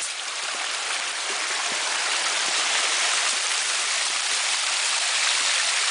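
Creek water running over small cascades: a steady, even hiss of flowing water that grows a little louder over the first few seconds.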